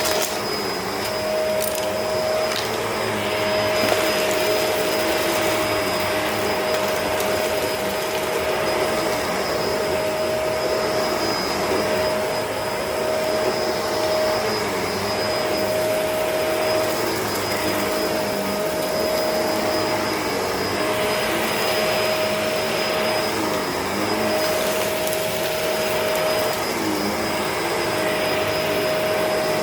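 Bissell CleanView Allergen upright vacuum running steadily over dirty carpet with a steady whine, picking up dirt and grass clippings.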